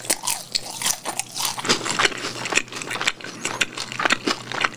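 Close-miked chewing of a piece of boneless Kyochon Sinhwa fried chicken: a dense, irregular run of small crackles and mouth clicks.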